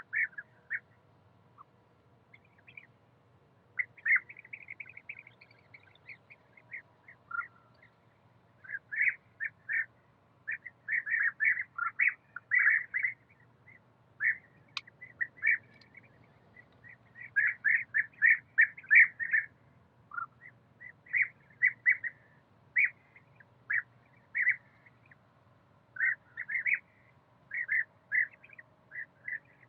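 Pet parrots chattering: runs of short, rapid chirping calls with brief gaps between the runs.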